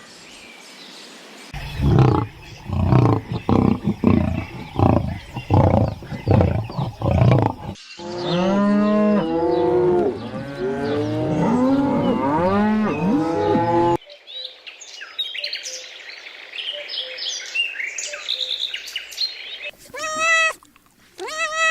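A run of farm animal calls cut one after another: several seconds of loud, repeated low calls, then a chorus of many animals calling over each other, each call rising and falling, then high-pitched chirping, and near the end a cat starting to meow.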